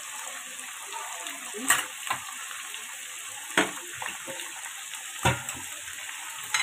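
Onion and spice masala sizzling steadily in hot oil in a cooking pot. A steel skimmer spoon knocks and scrapes against the pot several times as the mixture is stirred.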